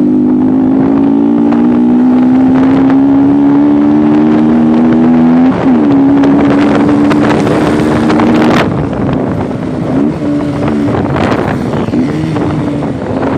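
Motorcycle engine and exhaust running hard at a steady high pitch that climbs slowly. The pitch drops sharply and recovers about five and a half seconds in, with shorter dips near ten and twelve seconds.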